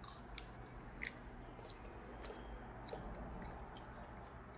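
A person chewing a mouthful of pancit noodles, with soft wet mouth clicks scattered through the chewing.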